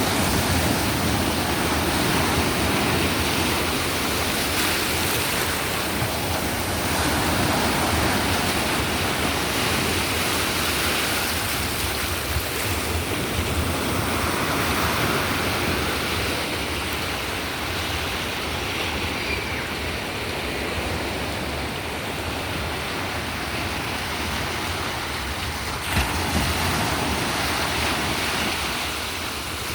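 Sea surf: waves breaking and washing up the shore in a continuous rushing noise that swells and eases every few seconds. A short click sounds near the end.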